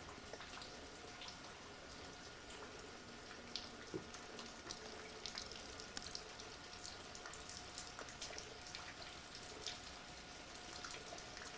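Light irregular dripping and ticking of freezing rain over a faint steady hiss.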